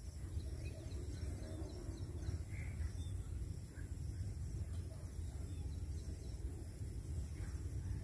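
Outdoor ambience: a steady low rumble with a few faint, short bird calls.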